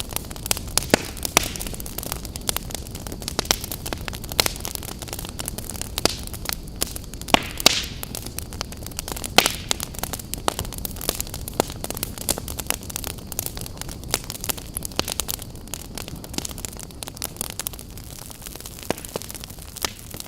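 Wood campfire burning, crackling with frequent irregular sharp snaps and pops over a steady low rush of flame.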